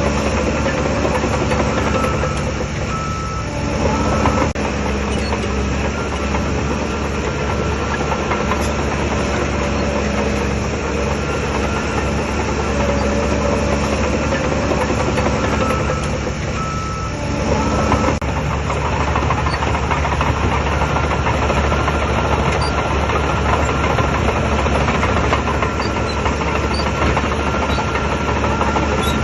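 Shantui DH17 bulldozer's diesel engine running steadily at working load. It eases off briefly twice, about three seconds in and again near the middle, each time picking up again with a short surge.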